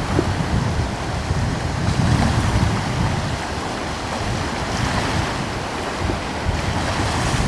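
Gentle ocean waves washing ashore, with breeze buffeting the microphone as a low rumble; the surf swells a little a couple of times.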